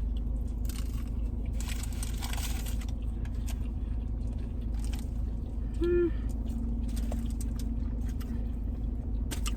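Eating sounds in a car: food wrappers and fast-food packaging rustling and crinkling, with chewing, over a steady low hum inside the car cabin. A short hummed "mm" comes about six seconds in.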